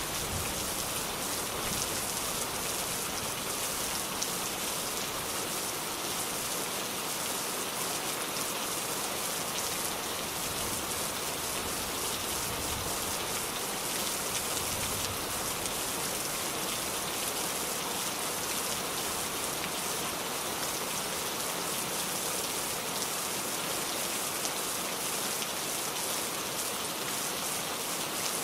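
Steady rain falling and pattering on a surface, with fine close drop ticks over an even hiss.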